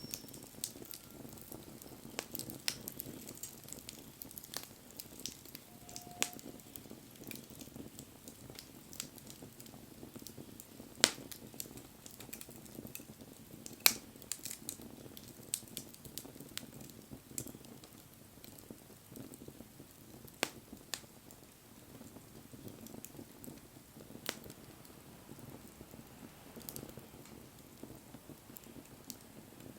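Wood bonfire crackling, with scattered sharp pops over a low steady rush of flames; the two loudest pops come about eleven and fourteen seconds in.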